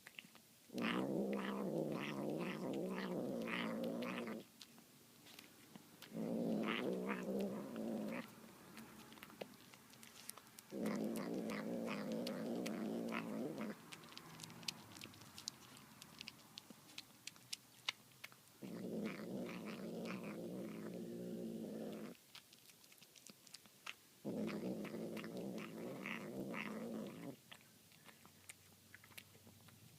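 Domestic cat growling low while eating tuna, in five drawn-out growls of two to four seconds each. Between the growls come wet chewing and smacking clicks.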